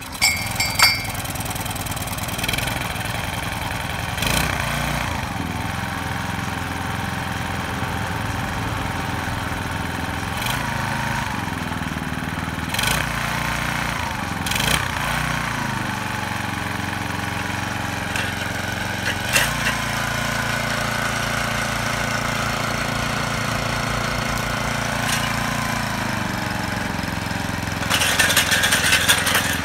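Kubota Midy TMA20 2.2-horsepower engine tiller running steadily, its engine note shifting in pitch several times. Near the end there is a louder rattling stretch of about a second and a half.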